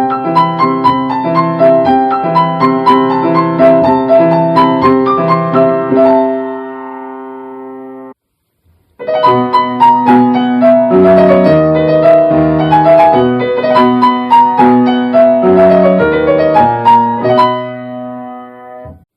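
Solo piano playing two short Japanese railway departure melodies back to back. The first ends on a held, fading chord and cuts off about eight seconds in. After a second of silence the next melody starts and fades out near the end.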